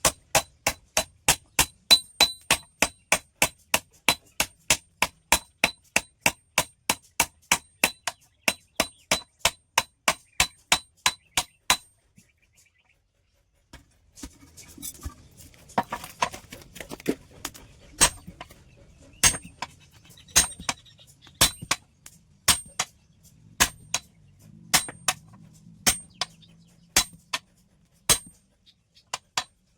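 Hammer striking steel on an anvil, with a bright metallic ring on each blow, while a hoe blade is forged from a steel plate. Fast, even blows at about three a second stop about twelve seconds in; after a short pause, slower and less even strikes of about one a second follow, with some clatter between them.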